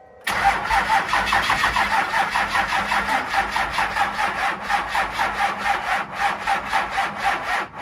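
Engine cranking on its electric starter for about seven seconds in a fast, even rhythm without catching. It stops just before the end. The vehicle has sat for weeks in the cold, and fuel has probably drained back from the pump.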